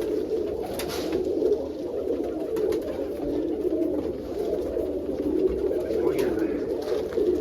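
Domestic pigeons in a loft cooing, many overlapping at once in a continuous low warble, with a few faint knocks of handling.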